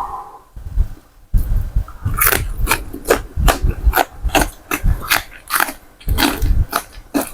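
Close-miked eating of Thai pork boat noodle soup: wet chewing and mouth smacks, about two or three a second, starting about a second in.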